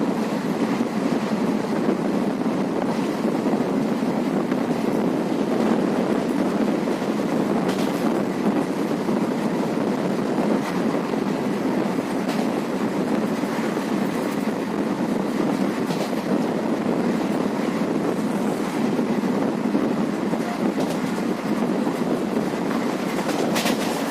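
Passenger train running steadily along the track: a continuous rumble of wheels on rail, with faint clicks every couple of seconds from the rail joints.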